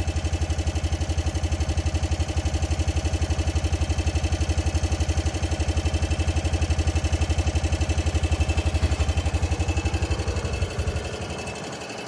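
An engine idling steadily with a fast, even beat. Its level drops near the end.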